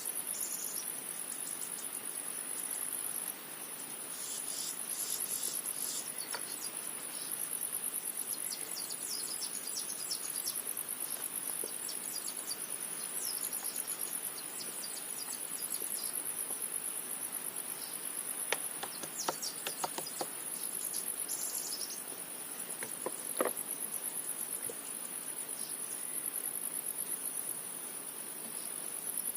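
Insects, cricket-like, trilling steadily in a continuous high-pitched pulsing chorus, with a brief dip about three seconds in. A few faint clicks come in the middle.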